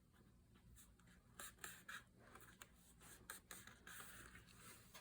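Faint rustling and scraping of paper and card being handled, with scattered small taps and clicks.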